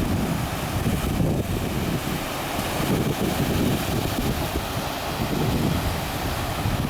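Wind buffeting the microphone in uneven low gusts over a steady wash of sea surf against the concrete breakwater.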